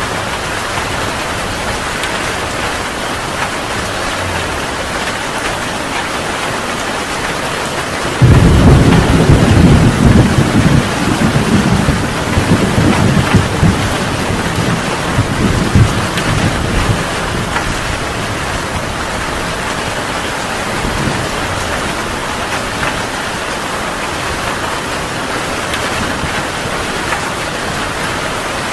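Heavy rain falling steadily, with a thunderclap about a third of the way in: a sudden loud, deep rumble that rolls on for several seconds and fades back into the rain.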